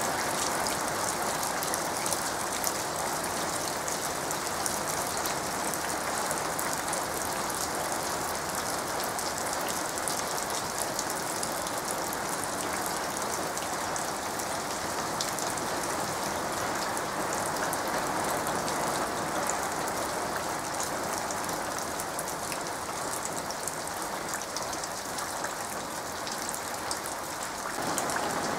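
Steady rain falling on the leaves of dense undergrowth: an even hiss of countless drops with many small individual taps. Near the end it changes to rain pattering into a muddy puddle.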